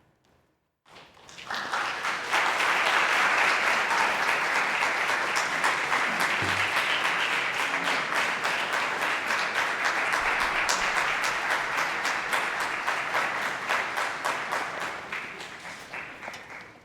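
Audience applauding after the piece ends, breaking out about a second in after a short silence and fading near the end.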